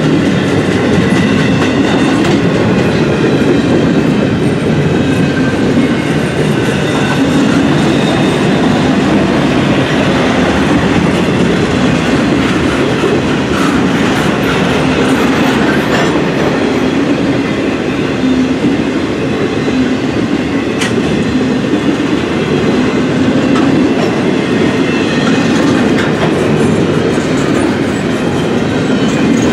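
Norfolk Southern intermodal freight train rolling past, a steady loud clatter of wheels on rail with a few sharp clicks.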